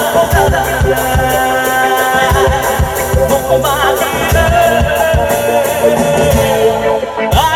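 Live band music from a Bollywood song medley: a busy drum beat under a wavering melody line, with no lyrics sung.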